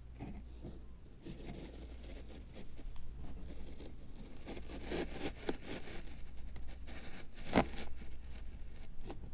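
Small scraping and rustling sounds of hand crafting work on a miniature Zen garden diorama, growing busier from about three seconds in, with one sharp click about seven and a half seconds in.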